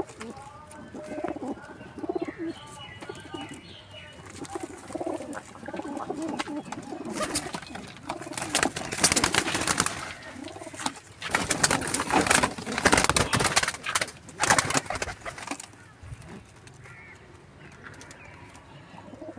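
Domestic pigeons cooing in a loft. From about seven to fifteen seconds in there is a louder stretch of dense flapping and scuffling noise.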